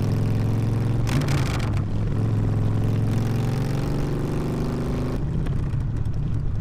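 Harley-Davidson V-twin motorcycle with a loud exhaust running under way, its engine note climbing gradually. A brief rushing burst about a second in, and the note drops back about five seconds in.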